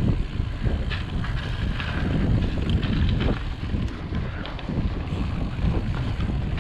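Mountain bike rolling over rock: wind buffeting the microphone and a low tyre rumble, with frequent small clicks and rattles from the bike over bumps.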